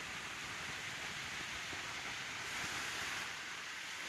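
Steady rushing of a rain-swollen stream running over the trail.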